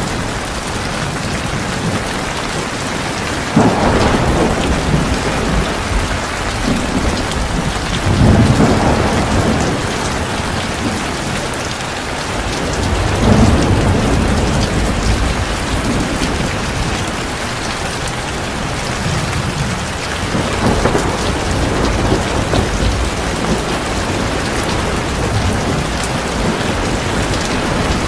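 Heavy rain falling steadily, with rolling thunder swelling up low and loud about four times.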